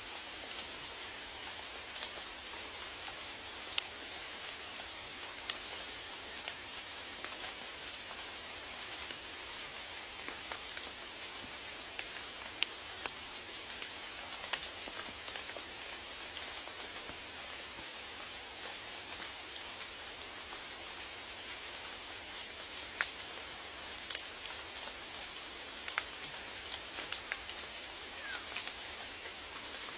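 Steady rain, an even hiss of falling water with scattered individual drops ticking sharply on a surface.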